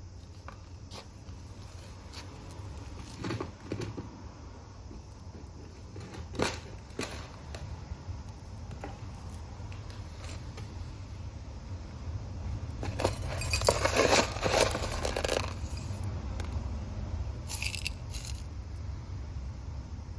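Hands-on repotting sounds: scattered scrapes, clicks and crackles of soil, pots and plants being handled, with a louder stretch of rustling and crinkling a little past the middle.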